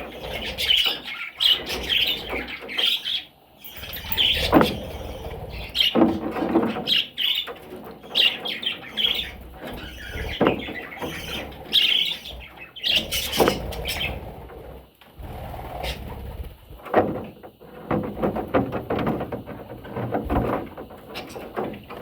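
Budgerigar chirping in quick short bursts through the first half or so, mixed with scattered clicks, knocks and rustling that carry on after the chirps thin out.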